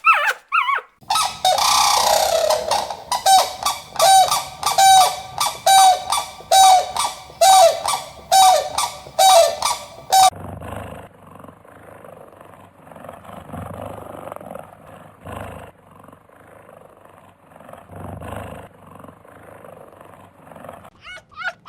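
Goose honking over and over, about two calls a second, stopping suddenly about ten seconds in; a much fainter, irregular sound follows.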